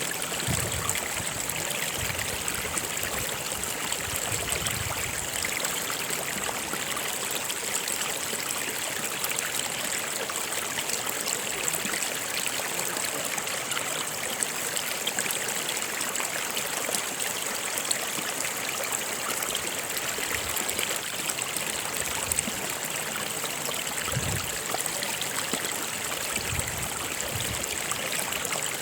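A stream of water flowing, a steady rushing and trickling that holds even throughout.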